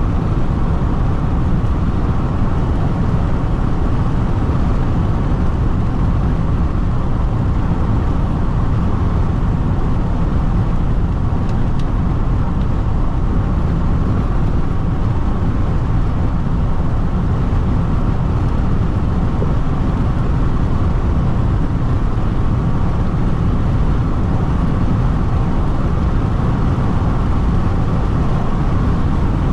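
Steady in-cabin road and wind noise of a Jeep Renegade diesel cruising at highway speed: an even, deep rumble with no change throughout.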